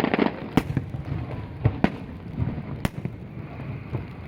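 Aerial fireworks shells bursting in a string of sharp bangs at uneven intervals, three of them loudest, with smaller crackling pops and a low rumble between.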